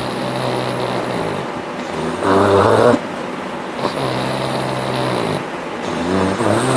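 Bulldog snoring in a slow, steady breath rhythm: a low, even drone on one breath alternating with a louder, higher, wavering note on the other, which comes twice. It is the noisy airway snoring typical of the breed's short, flat face.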